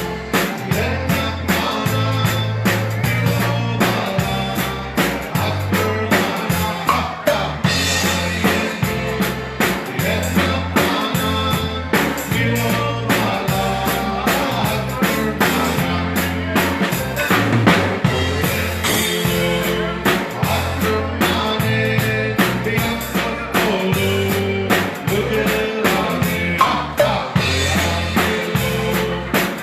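Live band music from a Texas Czech dance band: a drum kit keeping a steady beat over a stepping bass line, with other instruments above.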